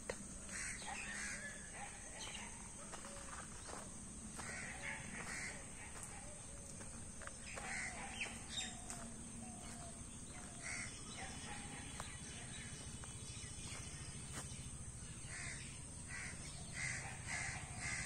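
Birds calling: crows cawing in short, repeated calls, with fainter chirping from smaller birds.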